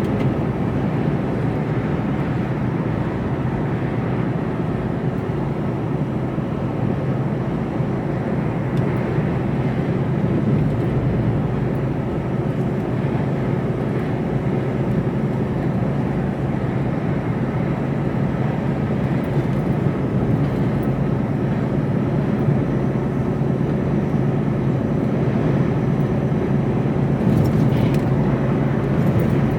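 Steady running noise of a Mercedes Actros truck heard from inside the cab while driving: an even diesel engine drone under road and tyre noise.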